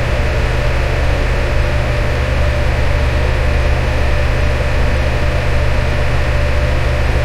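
Electric fan running steadily: an even rushing noise over a deep hum, with a faint steady tone in the middle.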